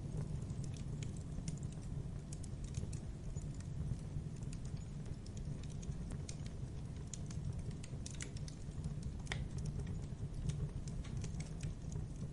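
Wood fire burning: a steady low rumble of flames with irregular sharp crackles and pops.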